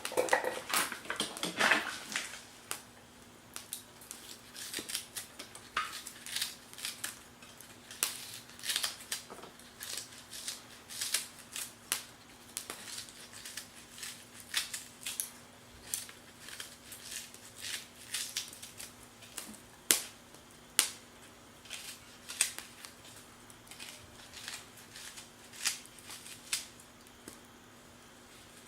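Wood fire crackling in a small Firebox camp stove: sharp pops and snaps at irregular intervals, busier and louder in the first couple of seconds.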